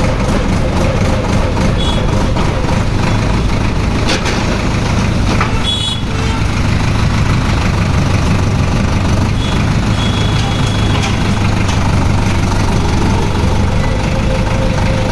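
Tractor's diesel engine running steadily with a low, even rumble. A few short high-pitched tones sound over it, about two, six and ten seconds in.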